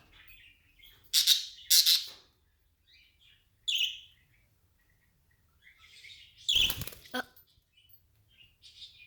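Pet birds chirping in short, separate high-pitched calls: two loud ones a little over a second in, another near four seconds, and a cluster around six and a half seconds.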